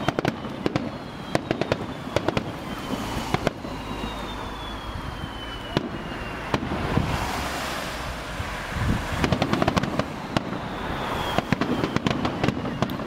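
Fireworks display: repeated sharp bangs and crackles from bursting shells, with a denser patch of crackling about halfway through. A faint thin whistle, falling slowly in pitch, is heard early on and again near the end.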